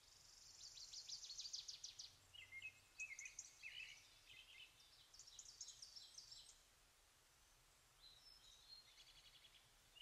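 Faint birdsong: fast high trills about half a second in and again near the end, with short lower chirps between them.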